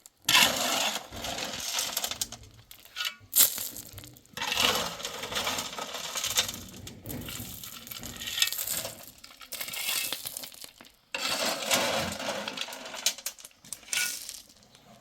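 Pebbles and gravel being shovelled and tipped, stones clattering and crunching in repeated scrapes of a second or two. The sound cuts off suddenly twice.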